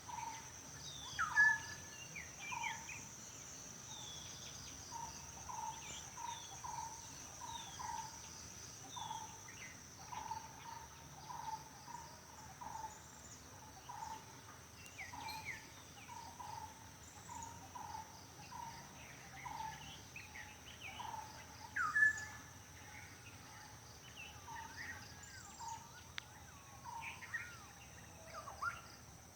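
Several birds calling and chirping over a steady high-pitched insect drone. One bird repeats a short low note about once a second throughout, and a louder rising whistled call stands out twice, near the start and about two-thirds of the way through.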